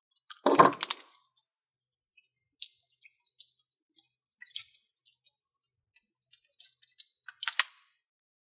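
Slime being squished and worked by hand: a wet squelch about half a second in, then scattered small clicks and pops, with another squelch near the end.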